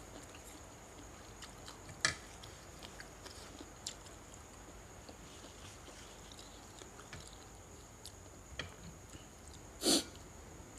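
Quiet eating sounds: faint clicks and mouth noises, with two short sniffs, one about two seconds in and one near the end.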